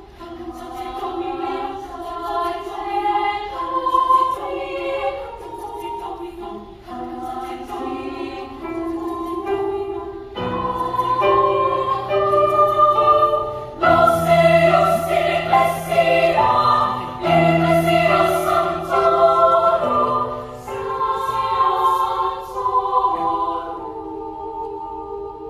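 Children's choir singing in parts, high voices carrying held notes. A lower line joins about ten seconds in, the singing is fullest and loudest midway, and it softens near the end.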